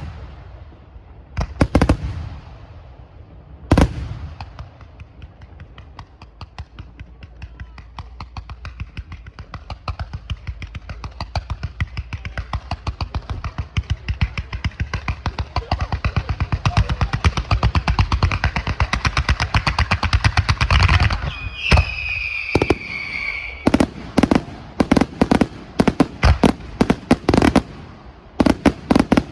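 Fireworks display: two loud bangs, then a long rapid string of sharp reports that grows denser and louder. About 22 seconds in a falling whistle sounds, followed by a series of loud, separate booms.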